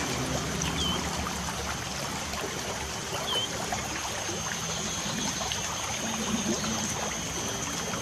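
Light rain pattering steadily, many small drops ticking, with a steady high-pitched tone behind it. A bird gives a short chirp twice, about a second in and again about three seconds in.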